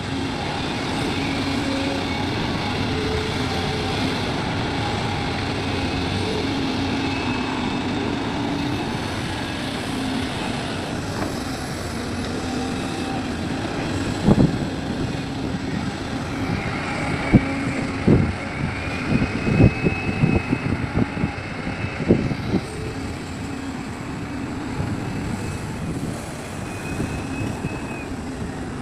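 Large hydraulic excavator working: the diesel engine runs steadily and changes pitch with the load, with a rising and falling hydraulic whine. About halfway through, a series of sharp knocks and thumps comes over it for several seconds.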